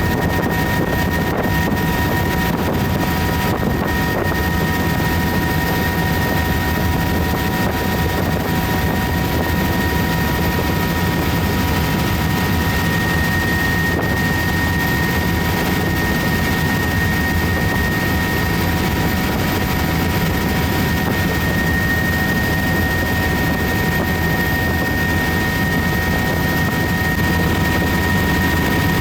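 Helicopter in steady flight, heard from inside its cabin with the doors off: constant rotor and engine noise, with a steady high whine over the low rumble.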